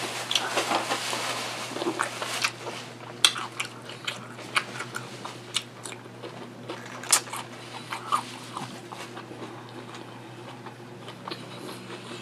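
Close-miked chewing of crunchy food, raw cucumber slices and tortilla chips: a string of sharp, irregular crunches with moist mouth sounds between them. A faint steady low hum lies underneath.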